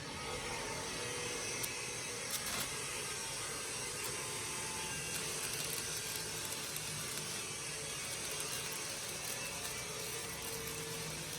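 Steady metalworking tool noise on steel that starts suddenly, with a few sharp clicks in the first three seconds.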